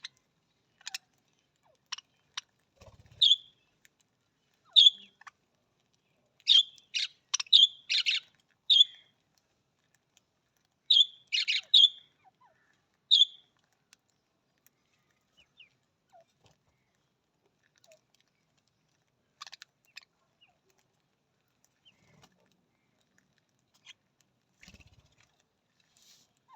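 Budgerigars giving short, sharp chirping calls, a run of them in the first half, then only a few scattered faint ones.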